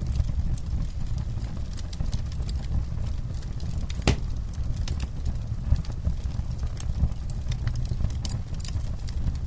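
Wood campfire burning and crackling: irregular sharp pops and snaps over a low steady rumble, with one loud pop about four seconds in.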